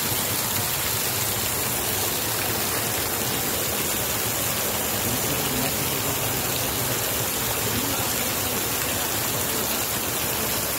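Heavy rain pouring steadily, splashing into standing floodwater with an even, unbroken hiss.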